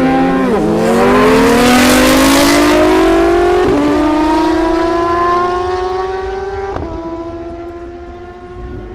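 Superbike engine at full-throttle drag launch, the pitch climbing steadily through each gear with three sharp drops at the upshifts, about half a second, nearly four seconds and nearly seven seconds in. It fades as the bike pulls away down the strip.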